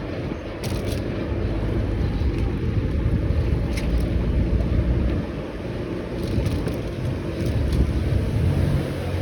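A motor vehicle's engine running with a low rumble, which grows louder near the end, and wind buffeting the microphone.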